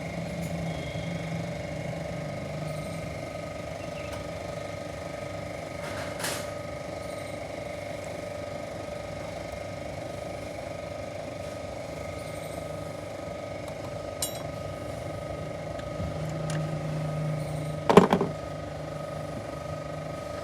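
Wrenches and metal parts clinking and knocking now and then as nuts are undone on a car engine, with a sharp metal clank about eighteen seconds in, over a steady background hum.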